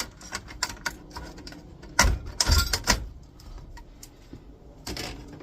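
Plastic clicks and knocks as a flat-screen monitor's plastic outer frame is prised off by hand, with a cluster of louder cracks and knocks about two to three seconds in and another near the end.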